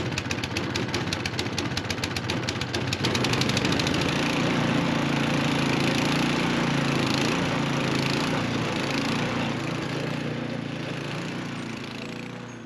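Small engine rattling with fast, even clicks for the first few seconds, then running steadily and fading near the end.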